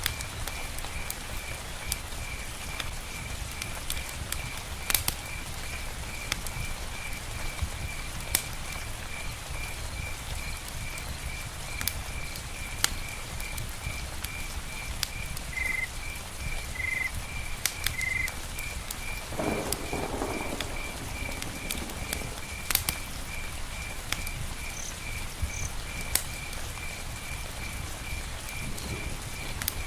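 Rain falling on a tent's covering, with scattered sharp drips. A steady high chirp pulses about twice a second, and a low croak comes about twenty seconds in.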